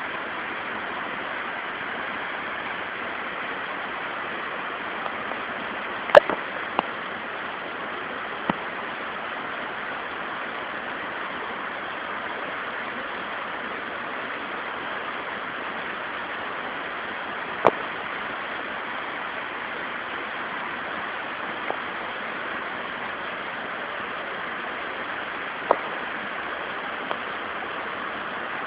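Steady rushing of a waterfall, with a few short sharp clicks on top, the loudest about six seconds in.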